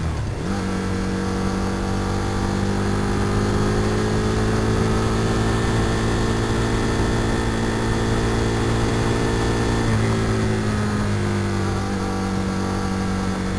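Aprilia RSV R Factory's 60-degree V-twin engine pulling on the road, with wind rush on the microphone. The engine note dips and picks up again right at the start, as in a gear change, climbs slowly, then drops about ten seconds in.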